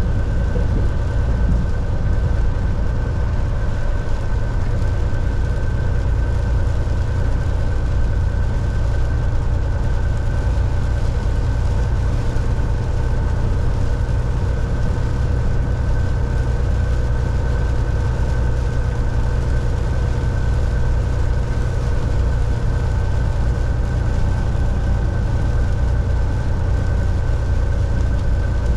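Volvo VNL 760 semi truck cruising on the highway, heard inside the cab: a steady, deep engine and road rumble with a faint steady whine above it.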